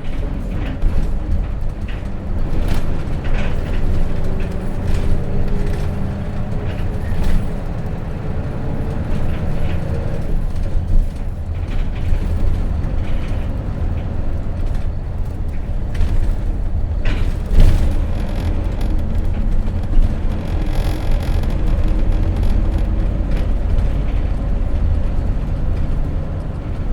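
Interior running sound of a Hino RJ bus's J08C six-cylinder diesel engine on the move, with a whine that rises slowly in pitch for several seconds and stops about ten seconds in. Rattles and clicks from the cabin sound throughout, with a sharp knock a little past halfway.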